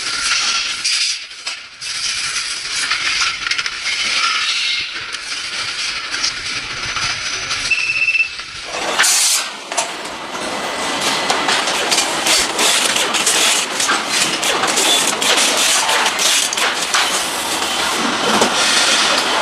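Motorcycle assembly-line noise: a steady hiss of air with many metal clicks and clinks of parts and tools. About halfway through the sound changes suddenly to a fuller, louder clatter.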